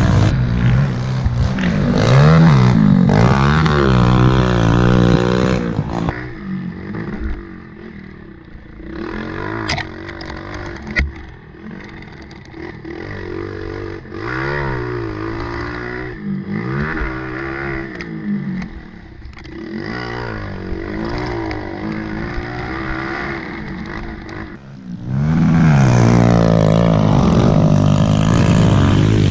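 Several small four-stroke pit bike engines revving up and down through the gears as the bikes ride laps of a dirt track. The engines are loud and close for the first few seconds and again near the end, and fainter in between.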